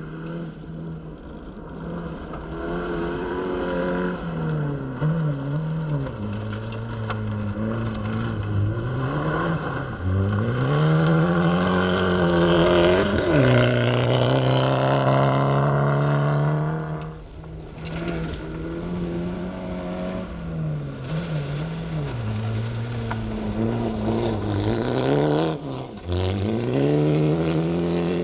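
Fiat Egea rally car's engine driven hard on a stage, its note repeatedly climbing under acceleration and dropping at gear changes and braking. It lifts off sharply about two-thirds of the way through and again near the end.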